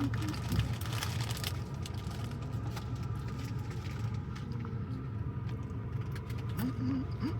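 Car running on the road, a steady low drone of engine and road noise, with a few scattered clicks in the first second and a half.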